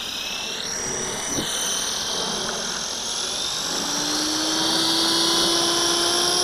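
Walkera V450D01 electric RC helicopter throttling up for takeoff: the high whine of its brushless motor and the hum of the rotor blades rise slowly in pitch and grow louder.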